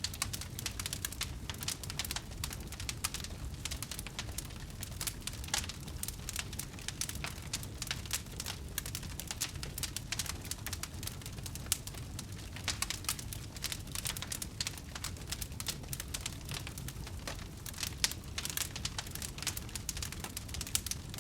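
Wood fire burning, with dense irregular crackles and pops over a low steady rumble of the flames.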